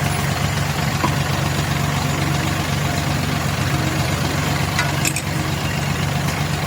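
An engine idling steadily, with a few sharp clicks over it.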